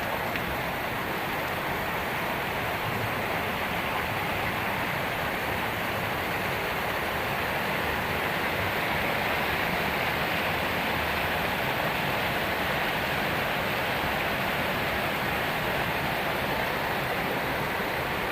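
Heavy tropical downpour: a steady, dense rush of rain with no let-up.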